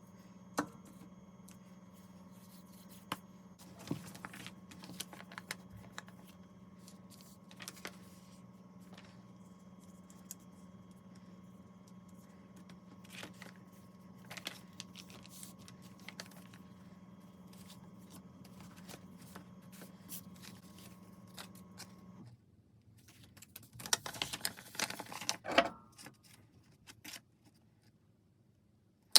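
Microwave oven running with a steady hum and scattered light clicks, cutting off suddenly about 22 seconds in. A burst of clicks and rustling follows, as of the door being opened and the contents handled.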